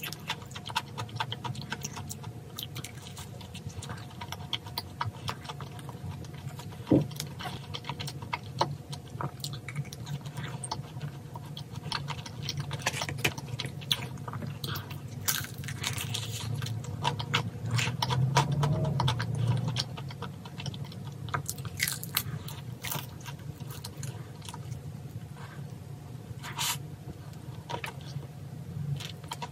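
Close-miked chewing and crunching of crispy seasoned fried chicken: irregular crisp crunches and mouth sounds, over a faint steady low hum.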